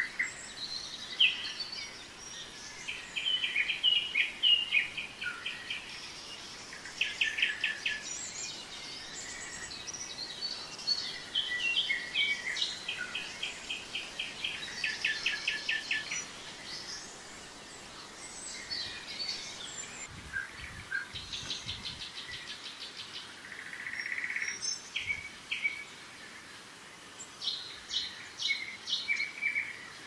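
Several birds singing and calling over one another: high chirps and rapid trills, repeated throughout.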